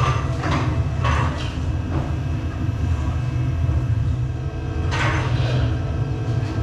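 Roller coaster station machinery: a steady low rumble with short hissing bursts just after the start, around a second in, and about five seconds in.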